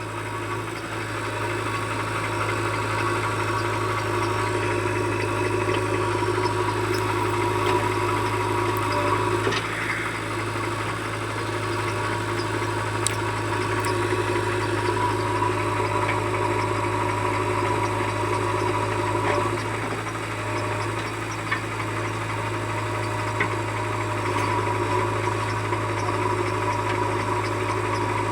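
Heavy diesel engine of a tractor or JCB backhoe running steadily, without revving up or down.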